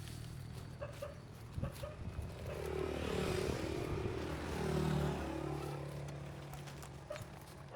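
A motor vehicle driving past, its engine swelling to a peak a few seconds in and dropping in pitch as it goes by, then fading away.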